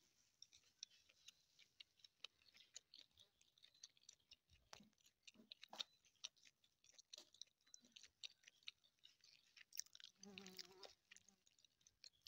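Faint chewing of a person eating by hand, with many small mouth clicks; a short low hum about ten seconds in.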